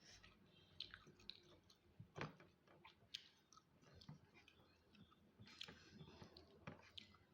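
Faint chewing: a person eating, with irregular small mouth clicks and crackles.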